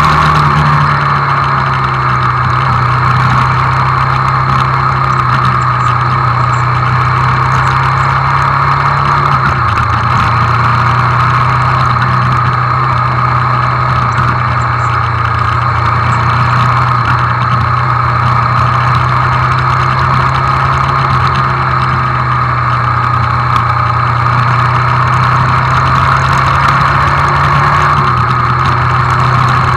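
Hyosung GD250N's single-cylinder engine running at steady city cruising speed under a constant rush of wind and road noise. The engine note drops with an upshift about nine seconds in and rises again near the end as the bike speeds up.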